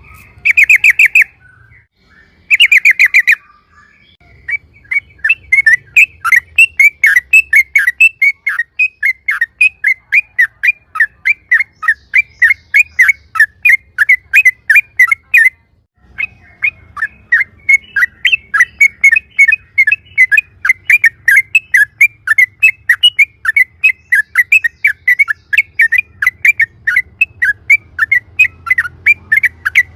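Yellow-vented bulbul (trucukan) singing its rapid 'ropel' song: two short dense bursts, then a long run of quick repeated chirping notes, about four a second. The run breaks off briefly about halfway and then resumes.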